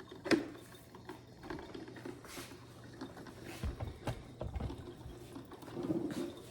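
Kitchen items being handled and moved on a counter: a sharp knock about a third of a second in, then light clatter, rustling and a few dull thumps around the middle.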